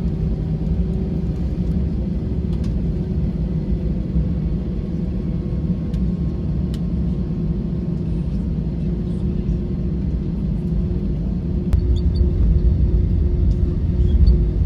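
Steady low rumble of an Airbus A321's jet engines heard inside the passenger cabin, with a faint steady hum. The rumble grows louder near the end.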